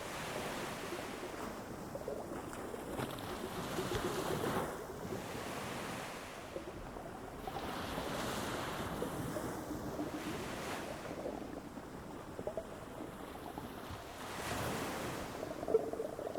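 Ocean waves breaking and washing up on a beach. The surf swells and ebbs every few seconds.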